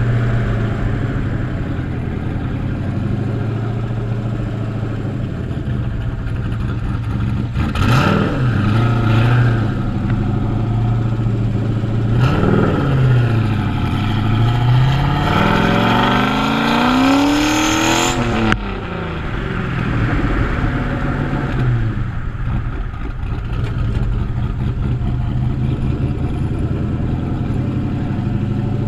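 Turbocharged 2001 Camaro engine through a side-exit bumper exhaust, running steadily at low revs. A quick rev about eight seconds in, a short rise and fall a few seconds later, then a long steady climb in pitch over about four seconds that cuts off suddenly, after which it settles back to a low steady run.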